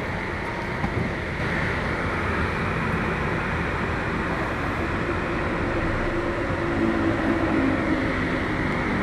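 Hino heavy truck's diesel engine running steadily, heard from inside the cab, with a low rumble and even cab noise.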